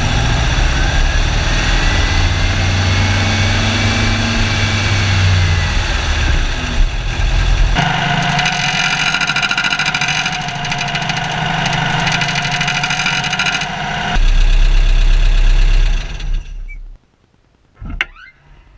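Air-cooled 1968cc VW engine running, revved up and back down. It then runs with a steady high-pitched squealing whine, which the owner traces to the cooling fan rubbing its housing. The running stops abruptly near the end, followed by a single click.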